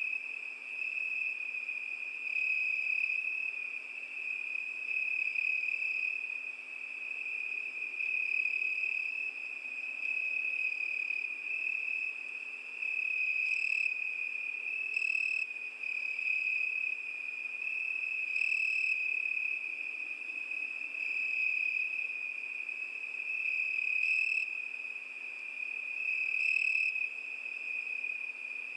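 Cricket singing: one continuous high trill that swells and fades gently every two to three seconds, with a few short higher chirps now and then.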